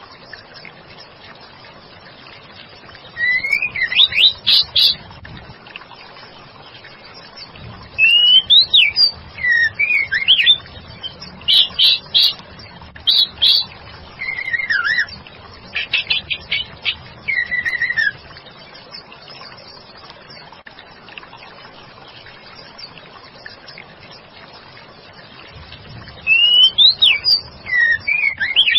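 Female white-rumped shama singing in three bouts of gliding whistles mixed with quick runs of sharp notes, separated by pauses of several seconds, over a steady faint hiss.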